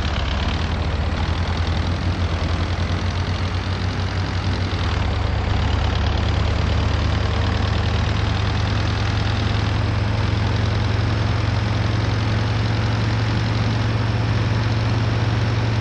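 MAZ-241 bus's diesel engine running, heard from inside the passenger cabin as a steady low drone. About five seconds in the engine speed rises a little and the drone gets slightly higher and louder.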